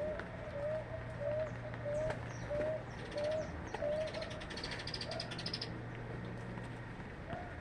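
A bird calling a steady series of short, low, evenly spaced notes, about one and a half a second, for the first four seconds, then a couple more spaced further apart. Other small birds chirp above it, with a fast high trill about five seconds in.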